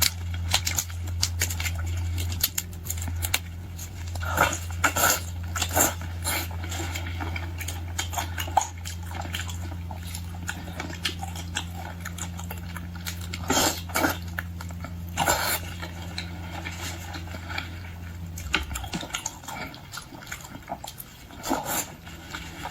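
Close-up eating sounds: chewing and crunching of boiled shrimp and lobster, with scattered short cracks and clicks. A steady low hum stops about 18 seconds in.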